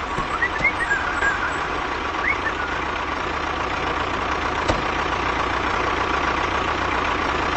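A vehicle engine idling steadily, with a few short rising chirps in the first few seconds and a single click near the middle.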